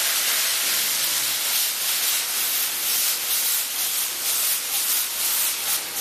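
Green chilli sauce hitting a hot pan of cabbage and capsicum stir-frying in oil over high heat: a loud, steady sizzle with fine crackling as the liquid boils off in steam.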